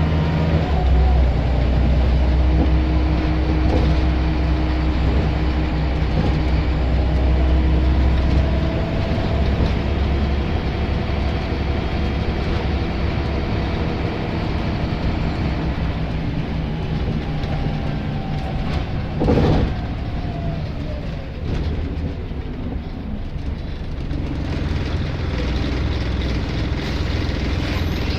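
Scania L94 bus engine running under way, its low drone heaviest for the first nine seconds or so and then easing off. A single sharp knock comes about nineteen seconds in.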